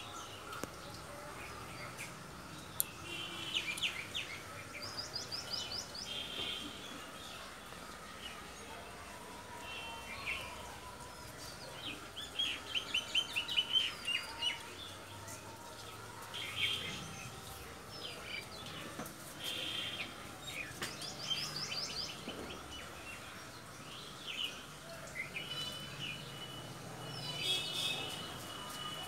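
Small birds chirping, with short calls and quick trills that come again and again, over a faint steady background hum.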